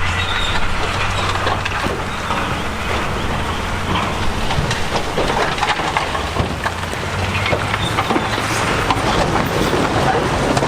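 Diesel crawler bulldozer running steadily under load, its engine humming low while its tracks and the rocks it pushes clank and knock many times throughout.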